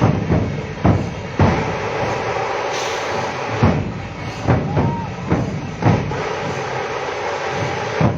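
Irregular loud thumps, several in each second or so, over a steady dense noise.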